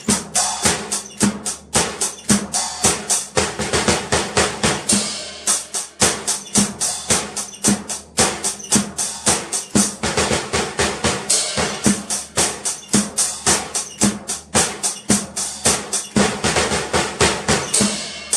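A beginner drummer plays an acoustic-style drum kit with no backing music: a steady groove of bass drum and snare under ringing cymbals, several strokes a second, stopping abruptly at the end.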